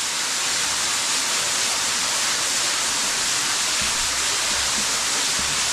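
Storm runoff pouring into a cave pit as a waterfall: a steady rushing hiss of falling water.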